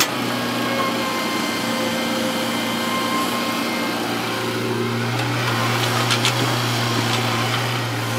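Heavy earthmoving machine's diesel engine running at a steady speed, with a sharp click at the start and a few light knocks about six seconds in.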